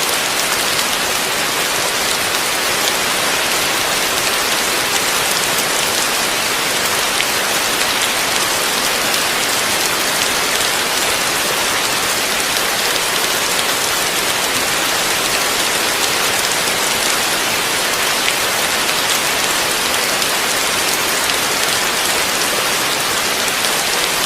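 Heavy rain falling steadily, a dense even hiss of drops on a surface with fine scattered patters and no thunder.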